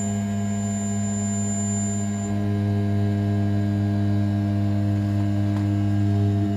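500 W brushless spindle of an RZ420 CNC router running steadily at about 6000 rpm while an end mill finish-machines a pocket floor in A7075 aluminium. It makes a constant humming drone. A faint high whine stops about two seconds in, and a lower tone joins at about the same moment.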